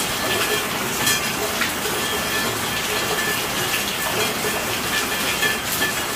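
Steady rain falling, a dense even hiss with frequent individual drops and drips standing out.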